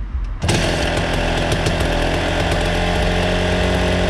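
Dirt bike engine running, suddenly much louder about half a second in, then holding a steady, buzzing run.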